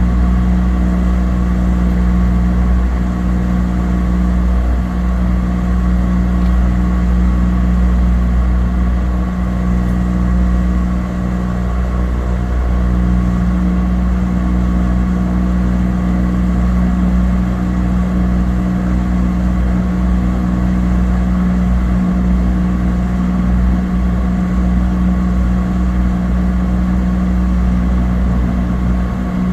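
Cabin drone of a Cessna 208 Caravan's PT6A turboprop engine and propeller in flight: a steady, unchanging hum with a strong low tone over a rumble.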